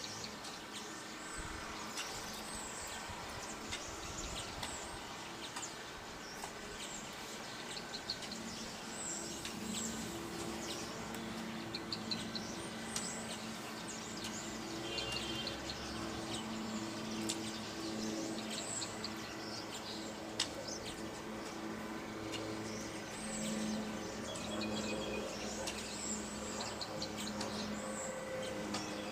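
Small birds chirping, with many short high calls scattered throughout, over a steady low hum.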